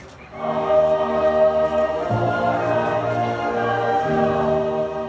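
A choir singing long held chords, starting about half a second in, with the chord changing about two seconds in and again about four seconds in.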